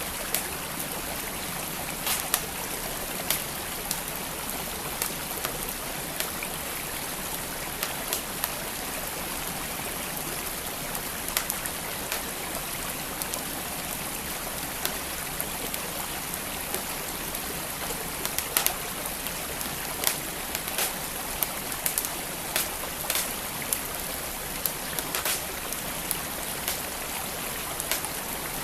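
Wood fire crackling, with sharp pops and snaps at irregular moments, over the steady rush of a flowing creek.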